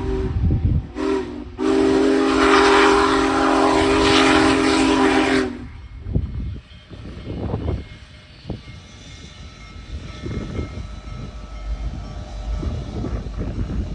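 Union Pacific Big Boy 4014's chime steam whistle: the end of a long blast, a short toot about a second in, then a long blast that cuts off sharply at about five and a half seconds, the short-then-long ending of a grade-crossing signal. After it comes the low, uneven rumble of the passing train.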